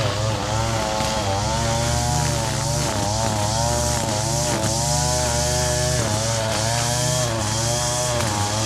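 Small gasoline engine of lawn-care equipment running continuously, its pitch wavering up and down about once a second.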